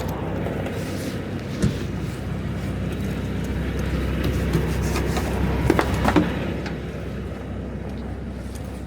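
Semi-truck's diesel engine idling steadily. There is a single knock about one and a half seconds in and a few sharper clanks about two-thirds of the way through.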